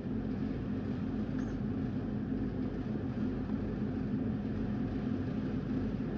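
Tugboat's diesel engine running with a steady low drone.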